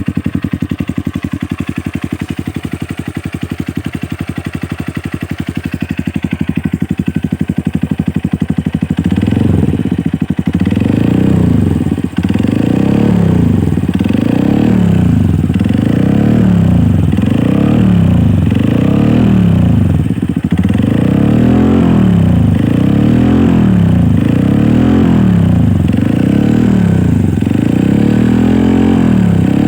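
Honda CRF motorcycle with an aftermarket Norifumi RV1 exhaust idling steadily, then revved in a long series of quick throttle blips, about one every second and a quarter, starting about nine seconds in.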